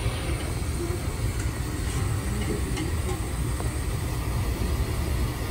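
Steady low rumble of a moving passenger train heard from inside the carriage, with a few faint light clicks.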